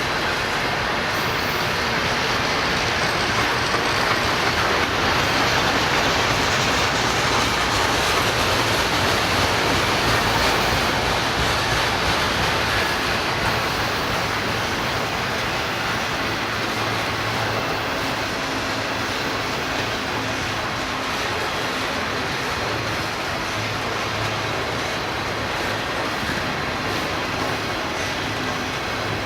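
A train rolling past: steady noise of wheels on the rails, a little louder a few seconds in, then easing slightly.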